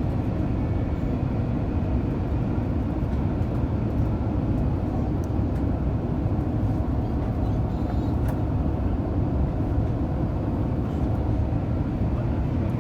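Steady low rumble of an Airbus A350's Rolls-Royce Trent XWB engines and airflow, heard from a seat inside the cabin.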